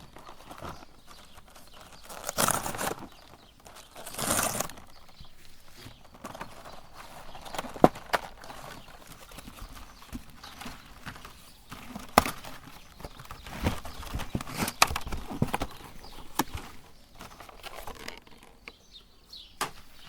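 Meat grinder working marshmallows through, with irregular clicks and knocks, soft squishing in between, and two louder rustling bursts early on.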